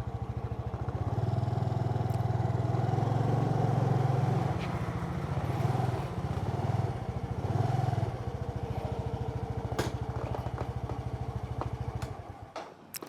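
Motorcycle engine running at low speed while being parked, swelling a few times with the throttle, then switched off about twelve seconds in. A few sharp clicks come near the end.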